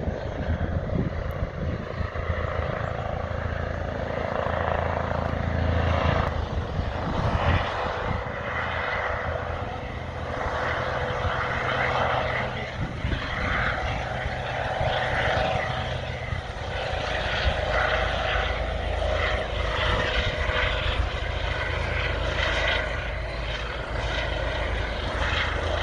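Aircraft running with a steady low engine drone and a held tone, under a rushing noise that swells and fades every few seconds.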